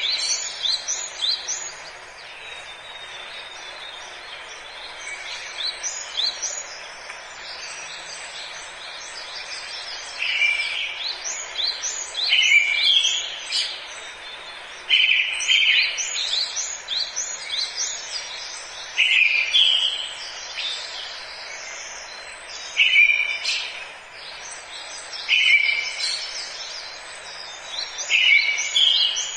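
Several birds singing in a forest: quick high chirps and trills throughout, and one bird repeating a short, louder phrase every two to four seconds from about ten seconds in. A steady even hiss of forest ambience lies beneath.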